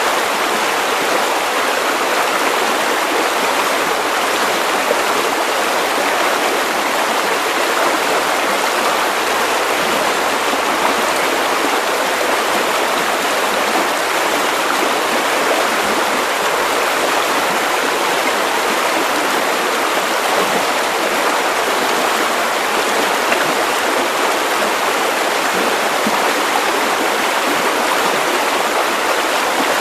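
Steady white noise: an even, unchanging hiss with no pitch and little low rumble, played as a sleep aid.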